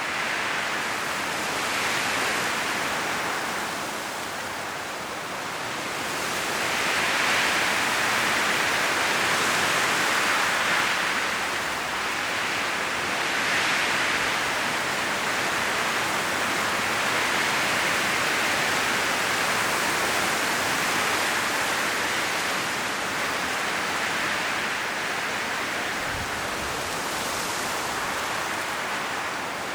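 High wind blowing through an autumn forest, dry leaves rustling in a steady hiss that swells and eases in gusts every few seconds.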